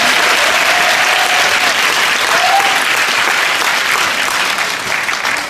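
Audience clapping, with a few voices calling out over the applause, which dies down at the end.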